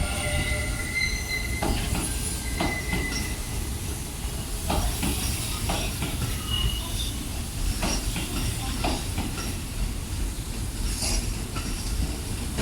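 Sanyo Electric Railway 5000 series electric train pulling out of a station: a steady rumble of the running gear, with irregular clacks as the wheels cross rail joints and a few thin, high-pitched tones in the first few seconds.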